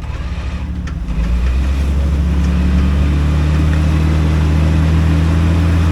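Off-road rock crawler's engine picking up about a second in and holding a steady, low drone under load as the rig drives forward during a winch recovery.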